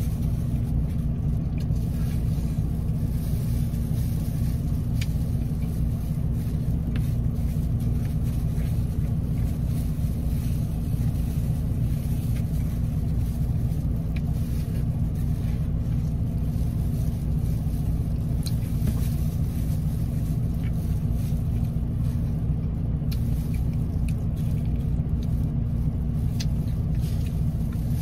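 Steady low rumble of a car engine idling, heard inside the cabin, with a few faint clicks and rustles from plastic-gloved hands pulling apart fried chicken.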